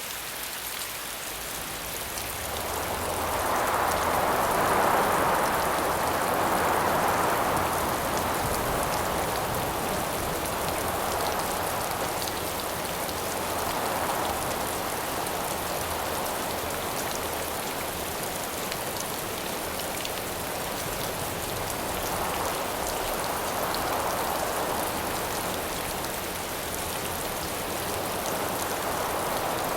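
Steady rain hissing, with wind rising and falling in gusts over it, the strongest gust a few seconds in and weaker swells about every eight to ten seconds after.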